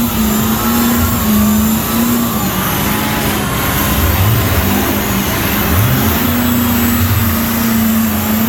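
Pulling truck's engine running hard and loud under load, holding high revs with the pitch dipping and climbing as the throttle changes.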